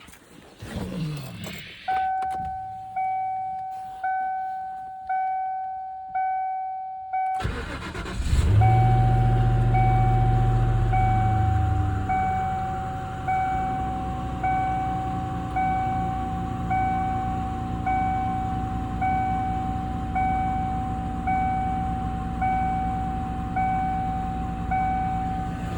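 A 1995 Lincoln Mark VIII's warning chime dings about once a second, starting about two seconds in. About seven seconds in, the 4.6-litre DOHC V8 cranks briefly and catches on a cold start. It runs at a fast idle that settles to a steadier idle about twelve seconds in, with the chime still going.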